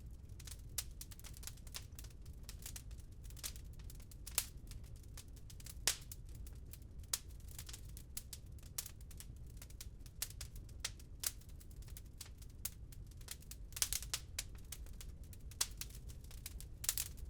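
Wood fire crackling in a fireplace: irregular sharp pops and snaps of varying strength, a few louder ones near the end, over a steady low rumble.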